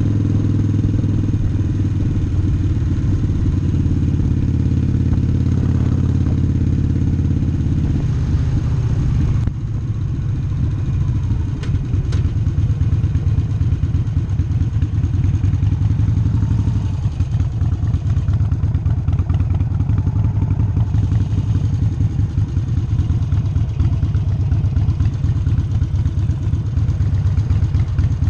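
Harley-Davidson Sportster's air-cooled V-twin engine running while the bike is ridden, steady at first. About ten seconds in the sound drops and turns to a slower, uneven pulsing as the bike rolls at low speed in traffic.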